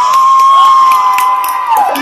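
A group of teenagers yelling one long shout together, the pitch sliding up at the start, held, then dropping away near the end.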